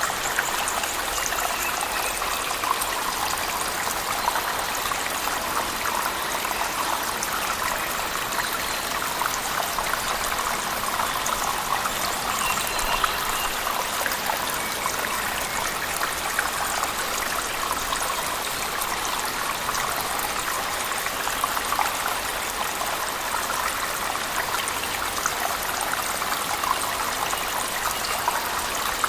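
Cave waterfall mixed with heavy rain: a steady, unbroken rush of falling and splashing water, dense with fine drops.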